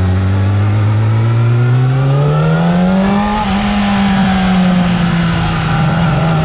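Yamaha R6's inline-four engine through its stock exhaust, revving up smoothly for about three seconds and then easing back down slowly.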